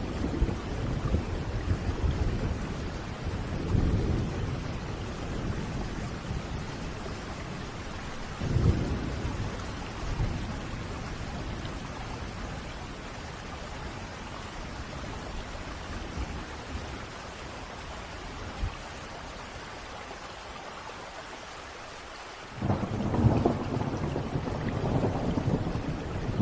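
Steady rain with rolling thunder: low rumbles in the first few seconds and again about 9 and 10 seconds in, then a loud rumble breaking out about 23 seconds in and continuing.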